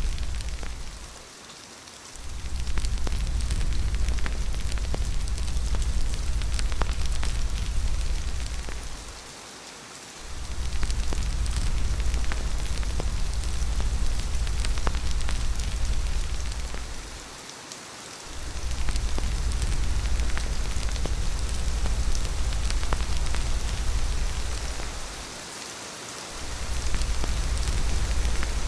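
Steady rain hissing, with scattered sharp ticks of drops, over a deep low rumble that fades out for about a second roughly every eight seconds.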